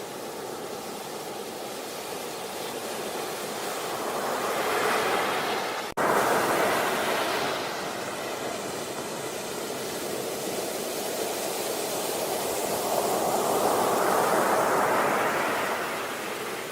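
Sea waves washing onto a beach, the surf swelling and easing in slow surges. There is a split-second dropout about six seconds in, after which the surf comes back at its loudest.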